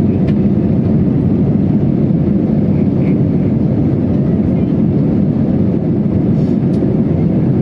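Airbus A320 jet engines at take-off power, a loud, steady low rumble with no change in level.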